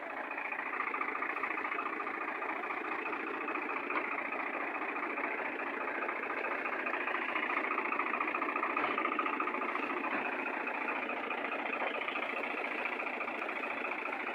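Fiat tractor's diesel engine running steadily, swelling slightly in loudness around the middle.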